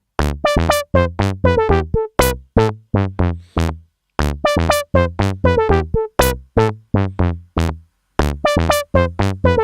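Dave Smith Instruments Tempest drum machine playing a looped sequence of short synth notes, low bass notes mixed with higher melody notes, each decaying quickly. Every note opens with a brief noise burst from the third oscillator, shaped by an envelope that follows how hard the pad is hit. The pattern repeats about every four seconds with a short gap.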